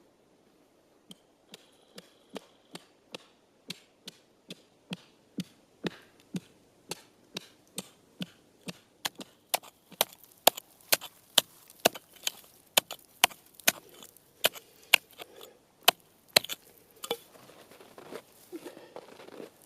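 Footsteps crunching through crusted snow at an even walking pace of about two steps a second, getting steadily louder as the walker approaches, then stopping near the end.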